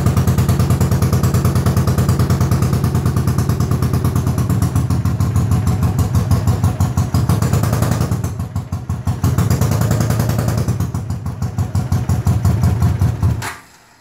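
1980 Honda CX500's liquid-cooled V-twin running with an even pulse. It sags twice, then cuts off abruptly near the end. It runs, but the owner says it definitely needs carburettor work.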